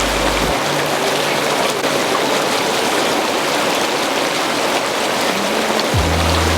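Hot tub bubbling and churning the water in a loud, steady rush. Music's bass cuts out about half a second in and comes back near the end.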